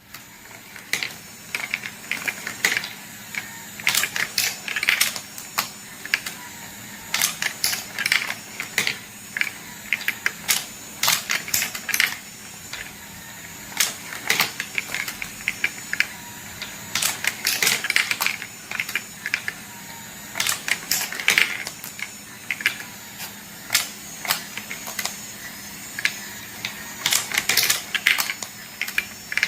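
Wooden marble run in motion: marbles clicking and clattering along the wooden track and mechanism, in irregular clusters of quick clacks throughout.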